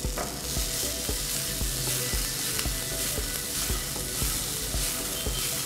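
Onion, green chillies, garlic, whole spices and freshly added chopped tomato sizzling steadily in hot oil in a frying pan while being stirred.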